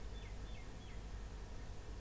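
A bird calling: a quick run of four short down-slurred chirps in the first second, then nothing more, over a low steady hum.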